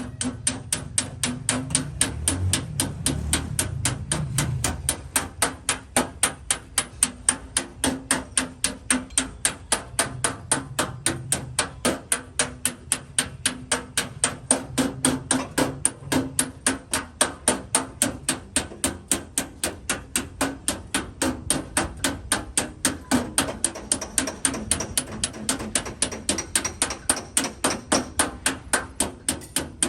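Light hammer taps on the sheet metal of a car body panel, about three a second in a steady rhythm: paintless dent repair, tapping the dent down bit by bit.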